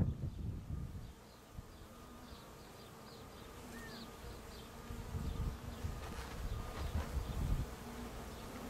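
Honeybees buzzing steadily around an opened hive during a frame inspection. Low rumbles come and go in the first second and again from about five to seven and a half seconds in.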